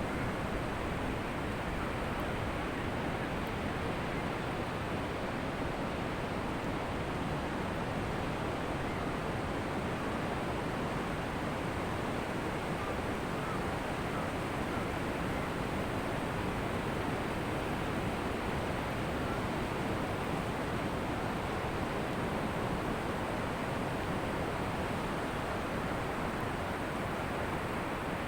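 Ocean surf on a beach: a steady, even rush of breaking waves, with no single crash standing out.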